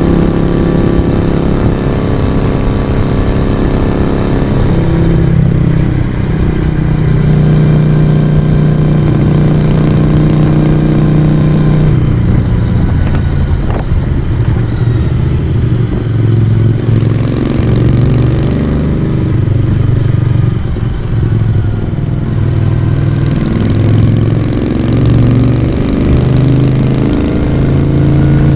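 Moto Guzzi V35's air-cooled transverse V-twin engine and exhaust running under way. Its note holds steady for the first part, then rises and falls in steps through the middle as the throttle is opened and closed, with a single short click about fourteen seconds in.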